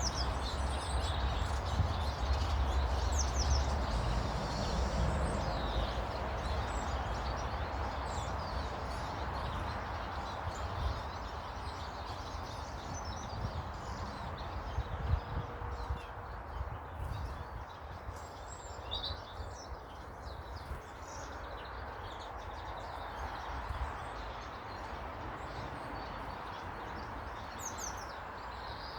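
Small garden birds chirping now and then, in short scattered calls, over a steady outdoor background hiss and a low rumble that is strongest in the first few seconds.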